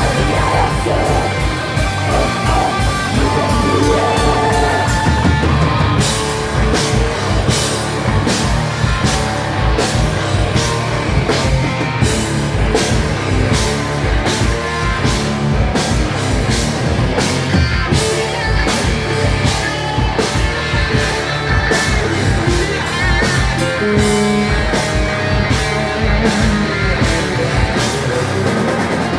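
Rock band playing live, loud, with electric guitars and drum kit. About six seconds in the drums settle into a steady, fast beat.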